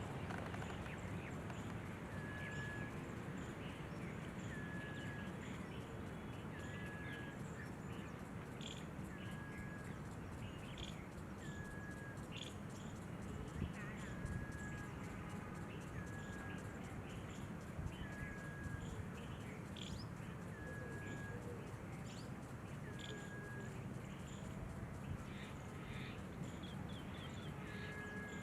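Outdoor bird calls: one short, level note repeated about every two seconds, with scattered brief high chirps, over a constant low rumble of background noise.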